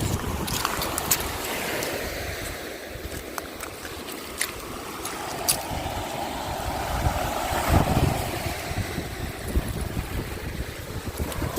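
Wind buffeting the microphone over waves washing up on the beach, with one wash building and fading about two-thirds of the way through. Scattered sharp clicks run through it.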